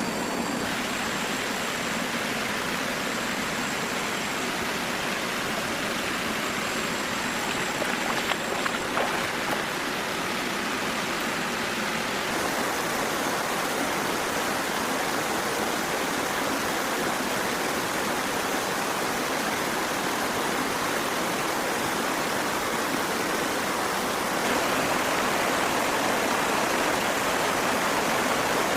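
Steady rush of flowing water, like a stream, with its tone changing about twelve seconds in and again near the end.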